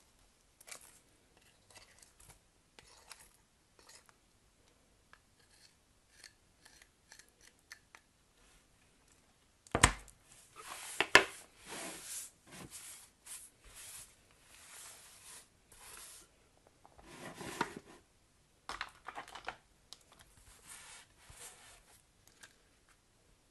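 Soap packaging being unwrapped by hand: light clicks and rustles at first, then a sharp knock about ten seconds in followed by stretches of tearing and crinkling of the wrapping, with further bursts near the end.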